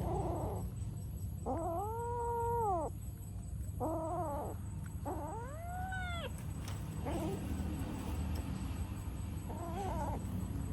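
Cat meowing repeatedly, about five drawn-out, rising-and-falling calls, the longest about a second and a half, over a steady low rumble.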